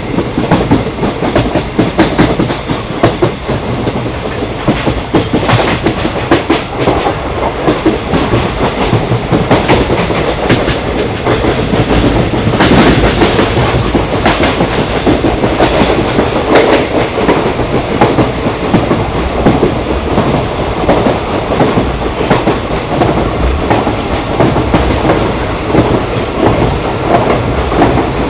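A train running on the rails: a loud, steady rumble with the clickety-clack of the wheels.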